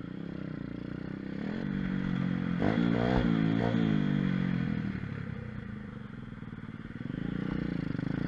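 Mini moto / pit bike engine running under the rider's throttle: the revs build over the first three seconds, ease off around five seconds, and pick up again near the end.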